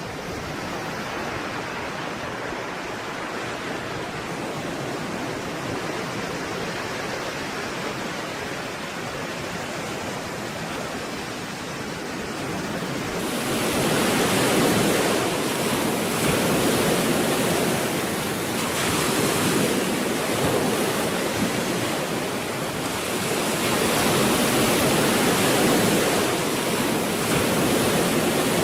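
Stormy sea surf: a continuous rush of breaking waves, softer for the first half, then louder and brighter from about halfway, with several swells as waves break.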